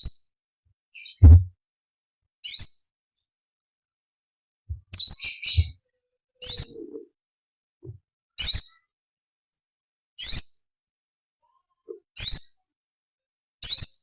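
Cucak cungkok (orange-bellied leafbird) giving short, sharp, high-pitched chattering call bursts, about one every one to two seconds. A low thump comes just over a second in.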